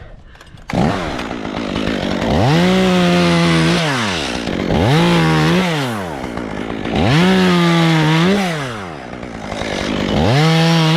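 Chainsaw engine running, starting abruptly about a second in, then revved up four times with no load, each rev held for a second or so and dropping back to a rough idle.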